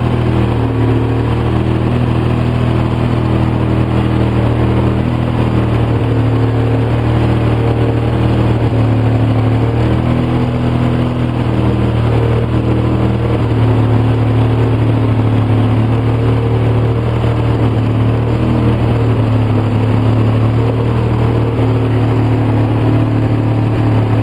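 2004 Polaris Sportsman 700 twin ATV engine idling rough on partial choke; it dies if the choke is eased off, which the owner blames on a badly rebuilt carburetor. The engine note wavers a little but holds steady.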